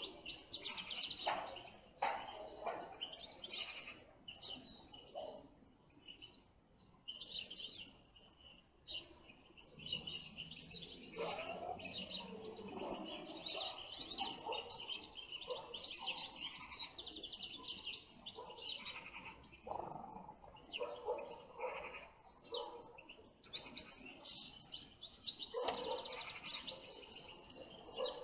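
European goldfinches calling and twittering, many short chirps and trills running on throughout.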